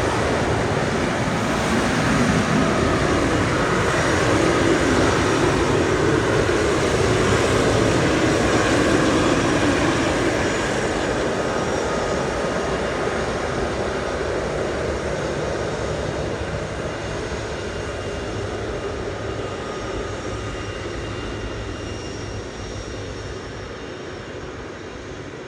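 Boeing 777-300ER's twin GE90 turbofan jet engines running at high thrust on departure, a steady roar with a faint whine. It swells to its loudest in the first few seconds, then fades gradually as the airliner moves away.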